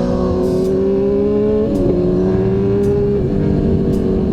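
2002 Suzuki GSX-R1000's inline-four engine pulling hard, its pitch climbing steadily and dropping sharply twice, about 1.7 seconds in and again about 3 seconds in, as it shifts up through the gears.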